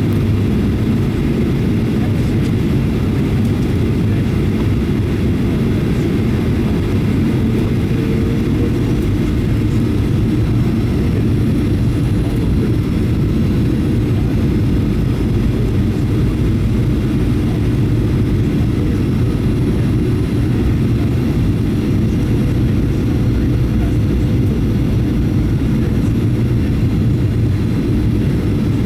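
Steady low cabin rumble of a Boeing 737-800 in flight: its CFM56-7B jet engines and the airflow over the fuselage, heard from inside the passenger cabin.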